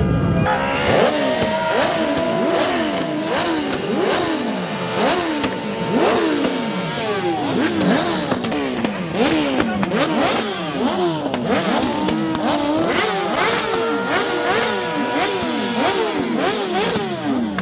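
High-revving car engine blipped up and down over and over, about one and a half to two revs a second, with a steady high squealing tone held above it for long stretches.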